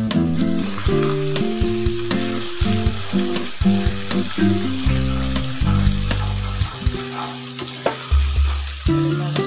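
Chicken and potato curry sizzling in oil in a steel kadai as a metal spatula stirs it, over background music.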